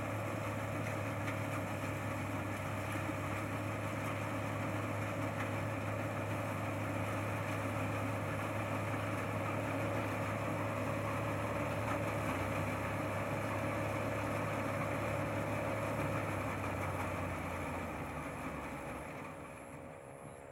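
Combine harvester engine running steadily, then fading away over the last few seconds.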